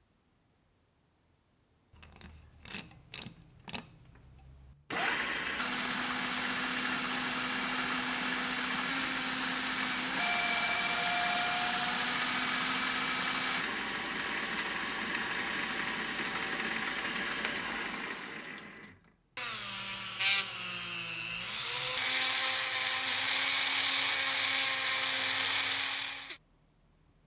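A few clicks, then a power tool running steadily at a workbench. It cuts off, and a second run of the tool begins with a falling pitch and a sharp click.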